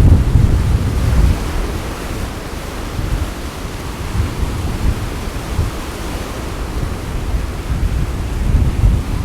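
Sea waves washing in with gusty wind buffeting the microphone, as a deep rumble under a steady rush of surf. The gusts are strongest at the start and again near the end.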